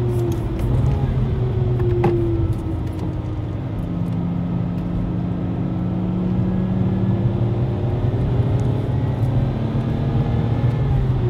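In-cabin sound of a Lexus IS200 TTE Kompressor's supercharged straight-six engine pulling through a track lap, its pitch rising and falling with the revs over steady road and tyre noise. The engine sound dips for a second or so about two and a half seconds in, then picks up again.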